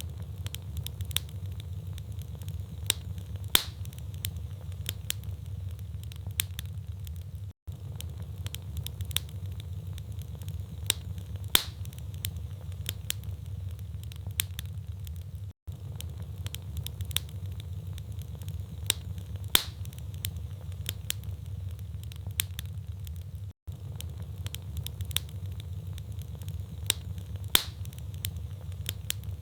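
Wood fire burning in a fireplace: logs crackling with sharp, irregular pops over a steady low rumble of flame. The same few seconds repeat, with a brief dropout about every eight seconds.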